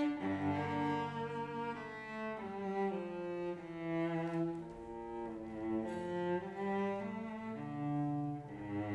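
Slow instrumental music with a cello playing sustained notes, several notes sounding together and changing about once a second.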